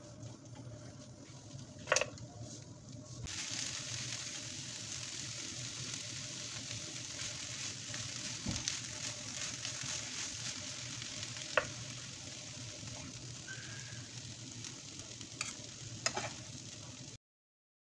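Vegetables sizzling as they stir-fry in a nonstick frying pan while being turned. The sizzle grows louder about three seconds in. It carries a few sharp knocks of the spatula or spoon against the pan and stops abruptly near the end.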